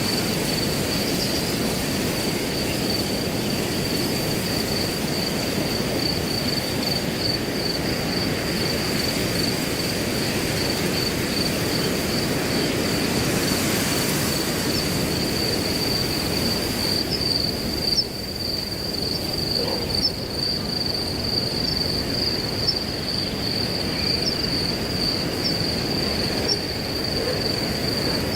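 Wind rushing through grass under a cricket's steady, unbroken high trill. Past the middle, short high chirps come about once a second over the trill.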